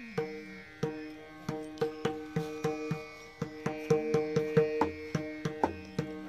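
Instrumental passage of a bhajan: a pakhawaj is played in a quick, even rhythm of strokes over steady held notes of an accompanying instrument.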